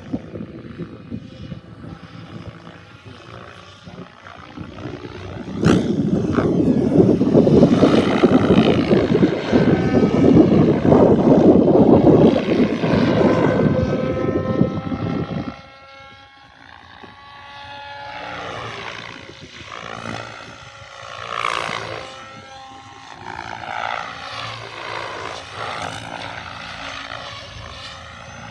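Radio-controlled RS7 model helicopter in flight, its rotor and motor whine gliding up and down in pitch as it manoeuvres and passes. A loud rushing noise comes in suddenly about six seconds in and cuts off abruptly around fifteen seconds.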